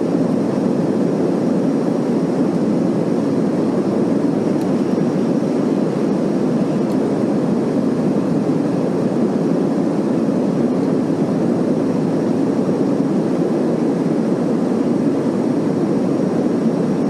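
Steady cabin noise of a jet airliner in flight, heard from inside the cabin: an even, unchanging rumble with no breaks.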